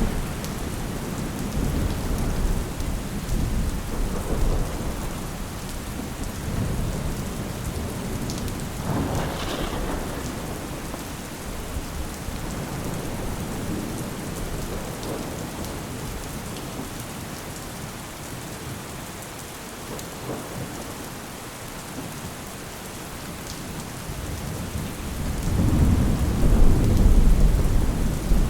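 Steady rain with rolling thunder: a low rumble dies away at the start, and a louder thunder roll swells up near the end.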